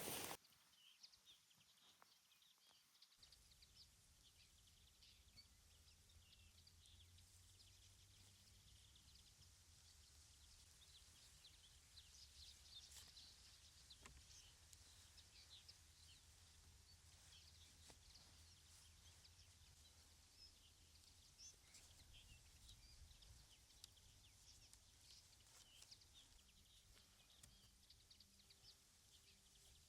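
Near silence: faint outdoor ambience with many small bird chirps scattered through it, over a low steady rumble.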